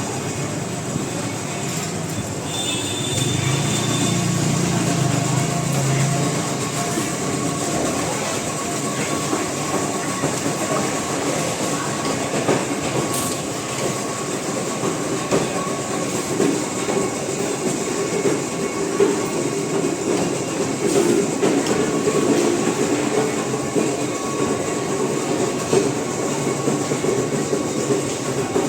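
Busy market ambience: a dense, continuous din with rattling and clatter over a thin steady hum, with a lower drone swelling about three to six seconds in.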